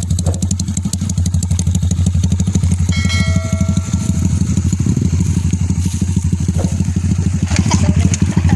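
Honda RS150's single-cylinder four-stroke engine idling steadily, its exhaust giving an even, rapid low pulse.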